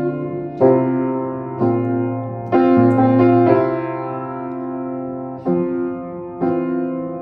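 Solo piano playing slow, sustained chords, struck about once a second, with one chord held for about three seconds in the middle.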